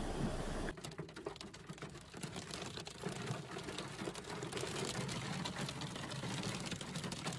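A steady rush of rain and wind cuts off under a second in. It gives way to rain pattering on a hard surface: a dense run of light, irregular ticks.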